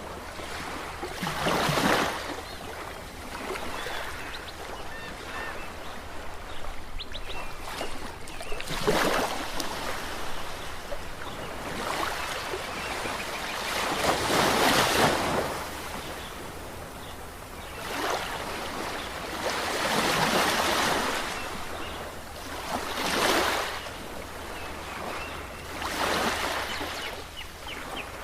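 Ocean waves breaking and washing in. The surf swells and ebbs about six times, a few seconds apart, with the longest surges near the middle.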